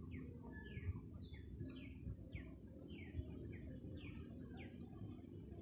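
Birds calling: a run of short notes that each slide down in pitch, roughly two a second, with fainter higher chirps among them, over a steady low rumble.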